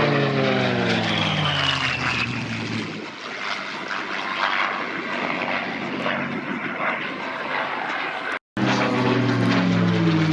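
Piston-engine World War II fighter flying past, its engine note falling in pitch as it goes by; after a sudden cut about eight and a half seconds in, another pass with the same falling engine note.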